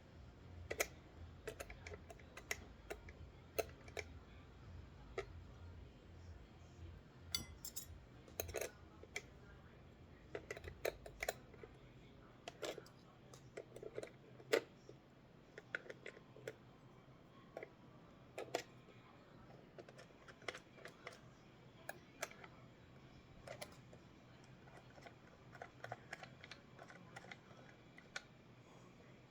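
Small hand tools and metal hardware clicking and tapping at irregular intervals while a bass guitar is worked on during disassembly. There are about one or two light clicks a second, with a low hum that fades out partway through.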